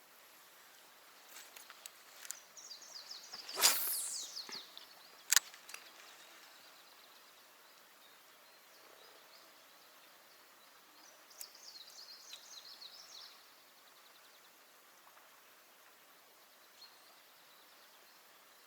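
A cast with a spinning rod: a loud whoosh falling in pitch as the rod swings and the line flies off about four seconds in, then a sharp click about a second and a half later. Short spells of fine rapid ticking come before the cast and again around twelve seconds.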